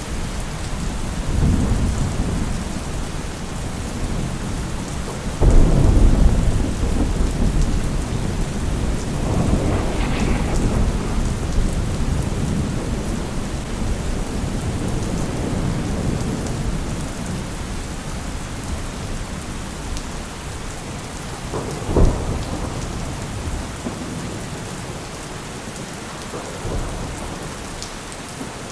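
Steady heavy rain with rolling thunder. A sudden loud thunderclap breaks about five seconds in and rumbles on, and a shorter, sharp crack comes about two-thirds of the way through.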